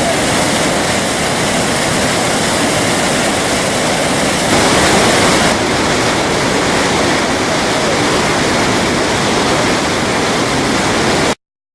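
Heavy rain pouring down in a loud, steady rush. It swells briefly about halfway through and cuts off suddenly near the end.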